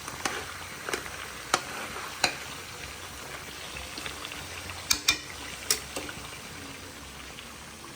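Pork sizzling as it fries in a pan, stirred with a spatula or spoon that knocks sharply against the pan several times.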